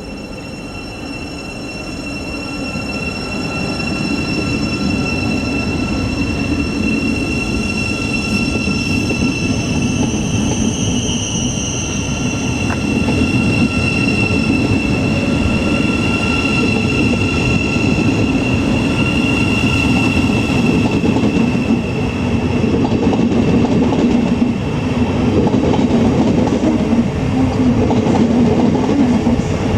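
Class 700 Desiro City electric multiple unit pulling out of the station: rumble of wheels on rail with a steady high-pitched electric whine. It grows louder over the first few seconds, then holds.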